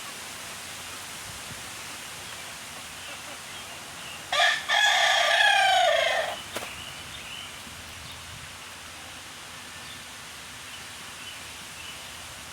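A rooster crowing once, about four seconds in: a single call of about two seconds that drops in pitch at the end, over a faint steady background hiss.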